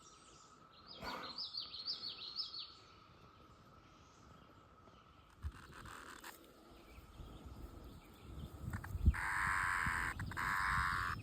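A loud, even buzzing drone of cicadas starts about nine seconds in, breaks off briefly and resumes. Earlier, a bird gives a quick run of short, falling chirps.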